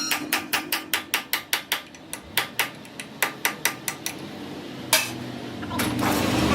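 Fast, even hammer strikes on metal during crankshaft repair work, about five a second, stopping about four seconds in, followed by one louder strike near five seconds. Near the end a machine starts running with a steady low hum.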